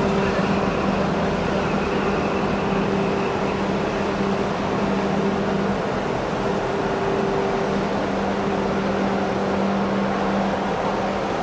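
Steady mechanical drone with a constant low hum, like a running engine.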